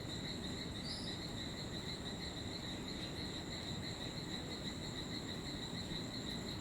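A steady, unbroken, high-pitched insect chorus, with one short high chirp about a second in.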